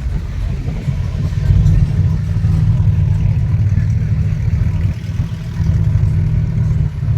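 A car engine running close by, a steady low sound that grows louder about a second and a half in.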